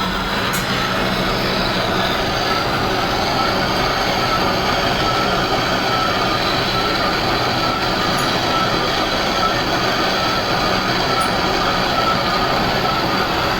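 Metal lathe running steadily, a continuous loud machining noise with a faint high whine held throughout.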